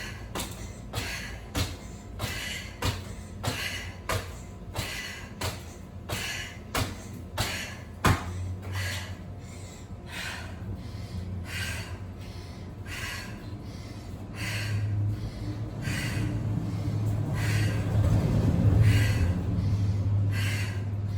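A person doing bunny hops, breathing hard: short sharp sounds come about twice a second in time with the jumps, then spread out and slow after about eight seconds. A low steady hum comes in partway through and grows louder toward the end.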